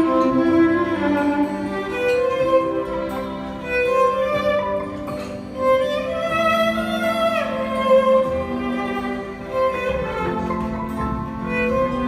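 Violin playing a melody of held, sustained notes, with a downward slide in pitch about seven seconds in.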